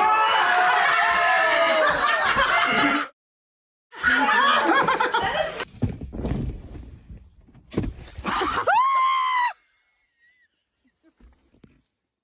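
People laughing and shrieking, with a high-pitched cry about eight seconds in, then near silence.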